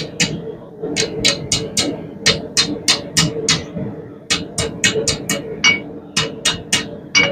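Blacksmith's hammer striking hot half-inch round steel on an anvil, forging a scroll on the bar's end: ringing blows in runs of four or five, about three a second, with short pauses between runs, over a steady hum.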